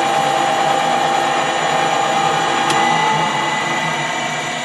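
Metal-turning lathe running with a steady gear whine while turning a small bar down to size, easing off slightly near the end.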